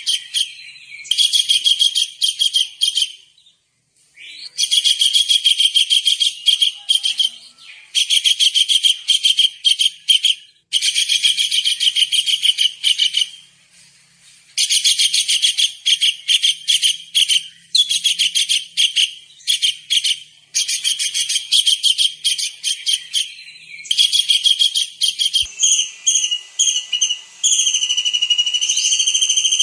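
Kingfisher (tengkek udang) calling in rapid, high-pitched rattling trills, in bursts of a few seconds separated by short pauses. Near the end the calls give way to a steadier, drawn-out whistle.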